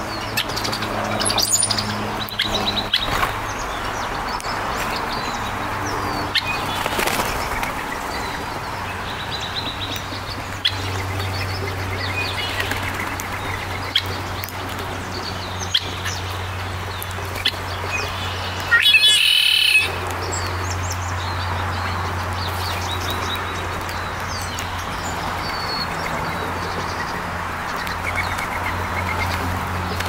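Songbirds chirping and calling in short, scattered notes over a steady low hum, with one louder burst lasting about a second roughly two-thirds of the way through.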